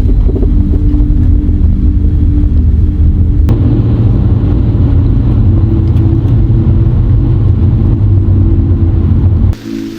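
Loud low rumble of a moving vehicle, road and engine noise. It grows heavier about a third of the way in and cuts off abruptly near the end.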